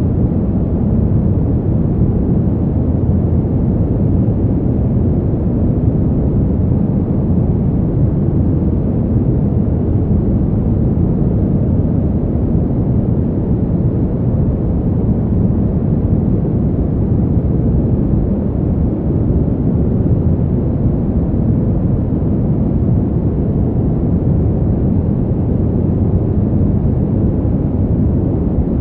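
Steady, deep rush of winter wind, even in level with no gusts or separate sounds standing out.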